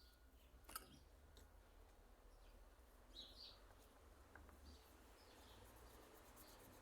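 Near silence: faint short bird chirps in the background, with one light click just under a second in.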